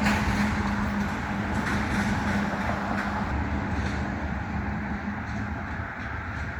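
Car driving: steady engine and road noise, with a low hum that fades out about two thirds of the way through.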